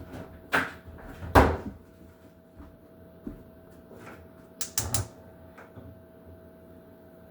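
Kitchen handling knocks and clatters: two bangs in the first second and a half, the second the loudest, then a quick run of three or four clacks about five seconds in, over a faint steady hum.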